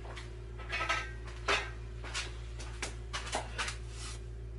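Metal tools and parts clinking and knocking as they are handled, half a dozen irregular clinks with the loudest about a second and a half in, over a steady low machine hum.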